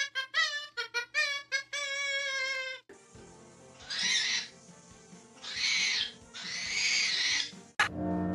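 A parrot whistling a quick run of short notes that bend up and down, then, after a cut, three harsh screeches, each under a second long.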